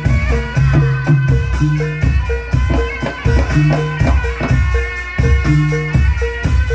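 Live Javanese folk-performance music: a percussion-led traditional ensemble with drum strokes on a steady beat, short repeating pitched notes in a cycle, and sliding melodic tones above.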